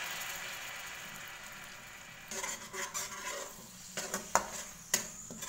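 Blended chili and shallot spice paste sizzling in hot oil in a wok, the hiss fading over the first two seconds. Then a spatula stirs and scrapes the paste around the pan, with two sharp knocks of the spatula on the wok.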